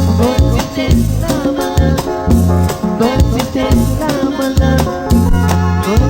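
Instrumental stretch of a live Latin cumbia-style band, with bass, a melody line and a shaken rattle over a steady beat.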